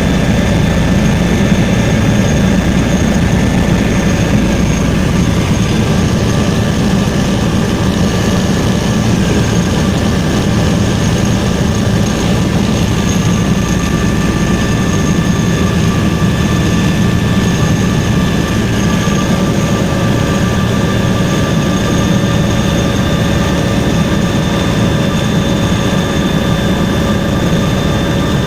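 Helicopter in flight, heard from on board: a loud, steady drone of engine and rotor with a constant high whine.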